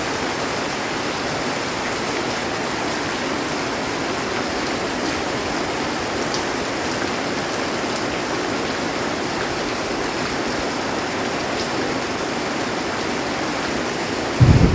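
Heavy rain drumming steadily on a metal roof. Just before the end, a loud low rumble of thunder begins.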